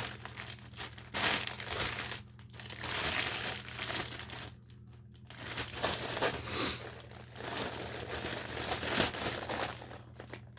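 Crinkling and rustling of a package's wrapping as it is handled, in irregular bursts with a short pause about halfway through, over a faint low steady hum.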